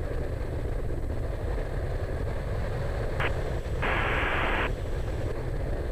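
Cessna 208 Caravan's PT6A turboprop engine running steadily at taxi power, a low drone in the cockpit. A brief burst of radio static comes about three seconds in, and a longer hiss of static a second later.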